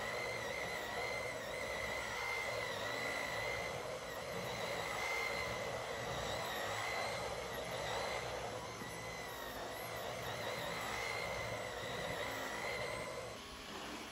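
Vacuum cleaner running steadily, a whine wavering slightly in pitch over a rushing of air. The rushing drops off a little about 13 seconds in.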